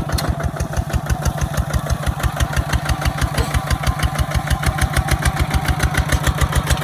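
Kubota ZT 155 single-cylinder diesel engine running steadily with a fast, even beat.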